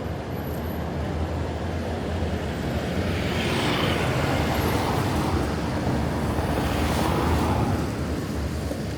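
Road traffic with a steady low engine hum. A vehicle passes about three seconds in, its noise swelling and then fading away a few seconds later.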